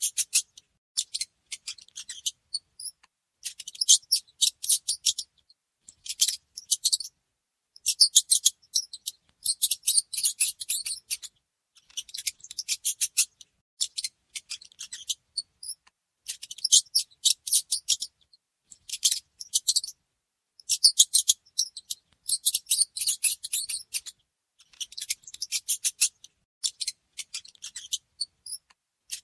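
Small mice scratching and rustling on wood, heard as high, crisp bursts of rapid fine clicks about a second long that recur every second or two.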